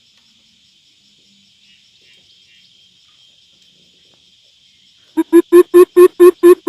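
Coucal calling: a run of about seven loud, deep, evenly spaced hoots, about four a second, beginning about five seconds in. Until then only a steady, faint, high insect buzz is heard.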